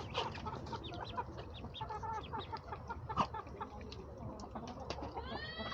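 Baby chicks and ducklings peeping: many short, high cheeps overlapping, with one louder arching peep that rises and falls near the end.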